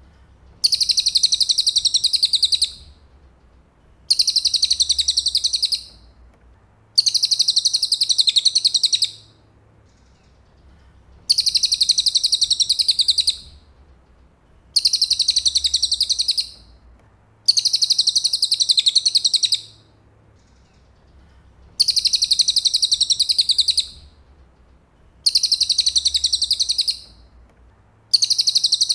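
Cililin bird singing: a high, rapid trill given in phrases of about two seconds, repeated nine times with short pauses between.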